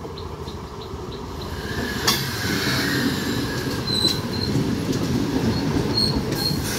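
Electric multiple-unit local train passing close by. The rumble of its wheels on the rails grows louder over the first two seconds as the coaches arrive, then holds steady. A sharp clank comes about two seconds in, and short high wheel squeals come a few times in the second half.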